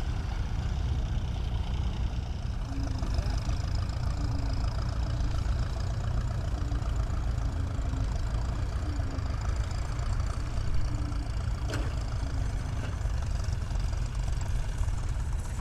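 Tractor engine running steadily with a deep rumble, with a single sharp click about three-quarters of the way through.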